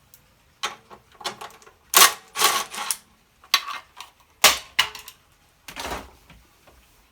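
Hand-worked recoil starter on an old Honda generator: a run of clicks and short rattling scrapes as the pull cord and recoil mechanism are worked, catching instead of retracting smoothly. The engine is not running.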